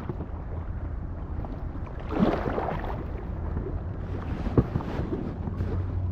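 Inflatable kayaks being paddled on a river: splashes of paddle strokes in the water over a steady rumble of wind on the microphone, with a sharp knock about four and a half seconds in.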